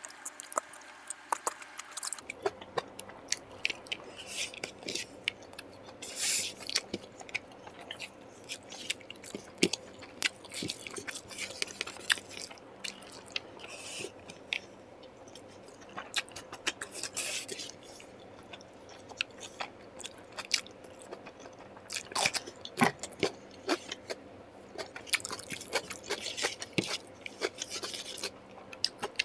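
A person eating close to the microphone, mukbang style: chewing and biting through a meal of curry, rice and fried food, with many short, irregular clicks and snaps of mouth and food sounds.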